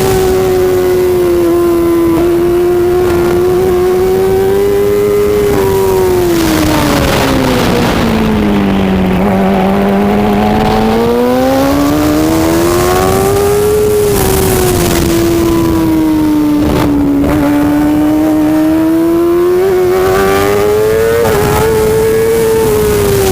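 Racing superbike engine running hard and continuously, its pitch sliding down and back up as the revs fall and rise: it slows to its lowest about halfway through, then picks up again.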